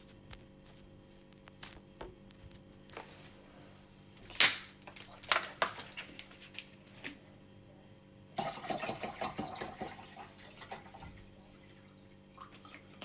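Plastic clicks and knocks as a capsule coffee machine is handled, with one sharp knock and a short clatter, then about two seconds of water splashing.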